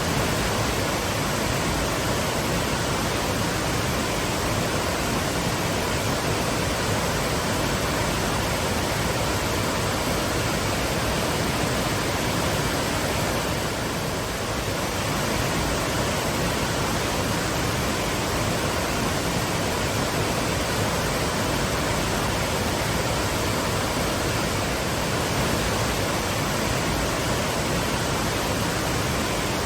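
Twin waterfalls pouring, a steady, even rush of falling water.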